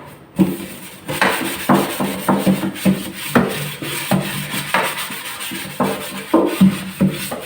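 Scotch-Brite scouring pad scrubbing a refrigerator part in detergent water, in quick uneven rubbing strokes about two or three a second.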